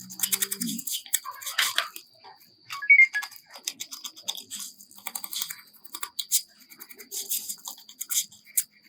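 Rapid small scratching, scraping and clicking of hand work on a phone, with a faint steady high whine underneath and a brief chirp about three seconds in.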